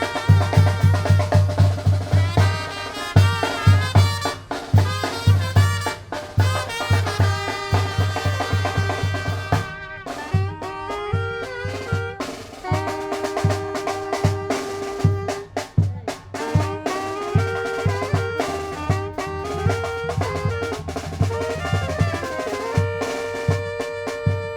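Tamborazo brass band playing: a deep bass drum pounds a steady beat under trumpets and other brass. About ten seconds in, the drum eases and the brass holds long sustained notes.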